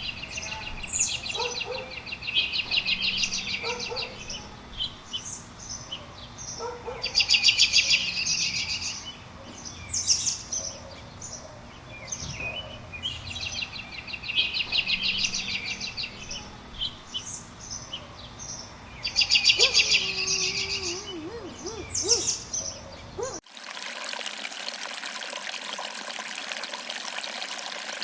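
Songbirds singing, with a fast high trilling phrase repeated every few seconds among scattered chirps. About 23 seconds in, the birdsong cuts off suddenly and is replaced by the steady rushing of a waterfall.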